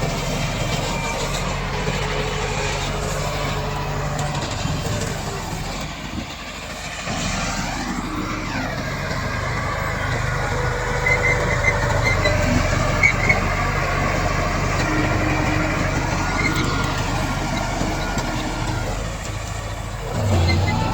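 Komatsu D68 bulldozer's diesel engine running steadily as it works, its pitch shifting around eight seconds in, with a short dip in level before that and a few short sharp knocks between about eleven and thirteen seconds in.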